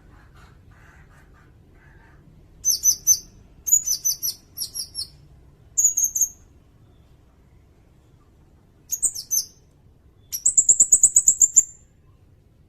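Sirindet bird calling: short clusters of sharp, high chirps, then a fast, rapid trill of about a dozen notes near the end.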